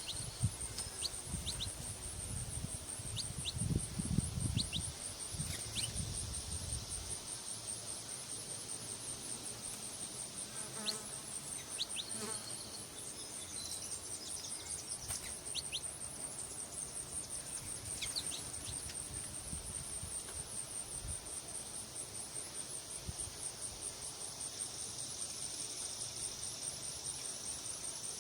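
Insects trilling without a break in a high, rapidly pulsing drone, with short high bird chirps here and there. A low rumble runs under it for the first several seconds, then stops.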